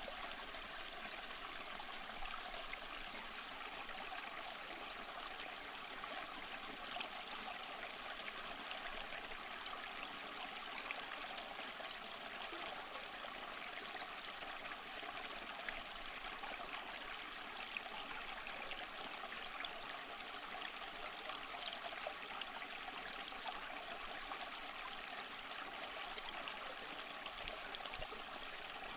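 Flowing water from a waterfall or stream, a steady, even rush with light splashing detail and little low rumble.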